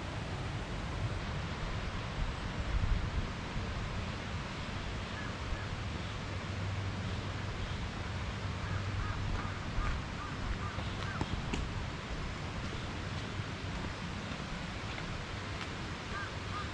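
Steady outdoor wind noise with low rumble on the microphone, and a bird calling in a few quick series of short notes about five seconds in, around nine to ten seconds in, and near the end.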